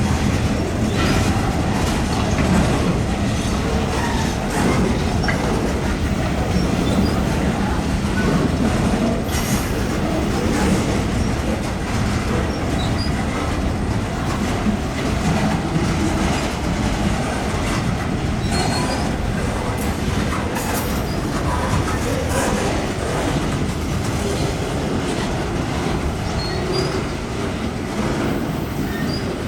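Freight cars rolling past at close range: a steady rumble of steel wheels on rail, with wheel clicks over the rail joints and brief high squeals from the wheels.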